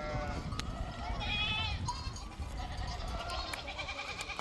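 A flock of sheep and goats bleating: several separate calls, some high-pitched, over a steady low rumble.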